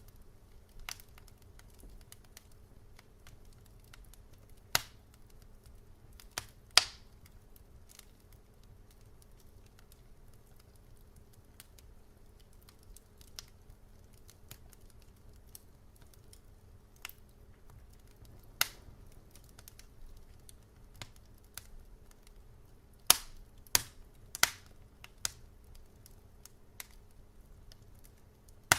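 Wood fire crackling: sharp, irregular pops and snaps, several clustered close together near the middle and towards the end, over a faint low steady hum.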